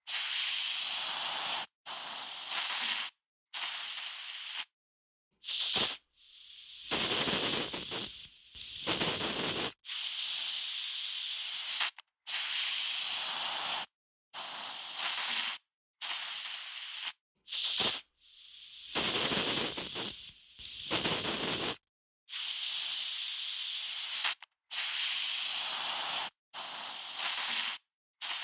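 Aerosol spray can hissing in a run of separate sprays, each from a fraction of a second to about two seconds long, with silent breaks between them. The nozzle is pressed and released over and over; a few of the longer sprays sputter and sound fuller.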